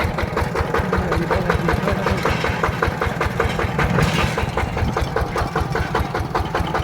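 Single-cylinder diesel engine of a mini tractor running steadily, with an even chugging beat of about eight pulses a second.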